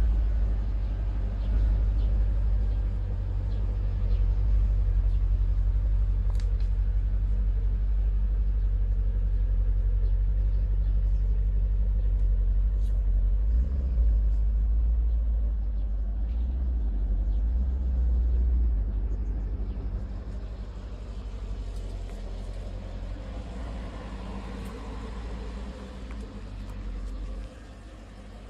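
2017 Porsche Panamera Turbo's twin-turbo V8 running with a steady deep rumble, easing to a quieter level about twenty seconds in.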